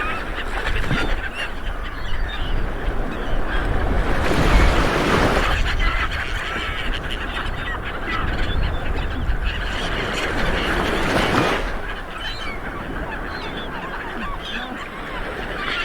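Light waves washing onto a beach, the surf swelling twice, with birds calling overhead throughout.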